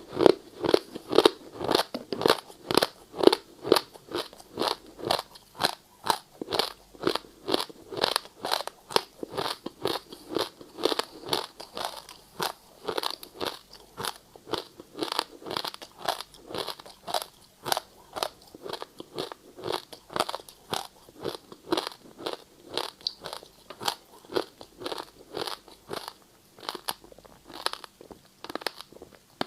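Ice being chewed close to the microphone: a steady run of sharp crunches, about two to three a second.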